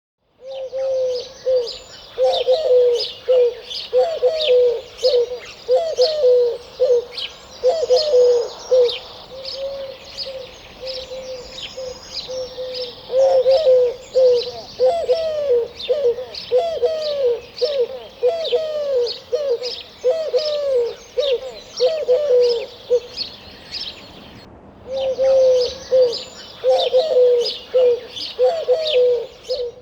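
A bird calling a long series of low, cooing notes, about two a second, with a short break near the end, while smaller birds chirp rapidly in higher voices behind it.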